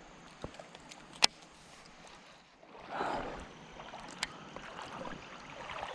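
Creek water sloshing and swishing, swelling about three seconds in, with a few sharp clicks; the loudest click comes a little over a second in.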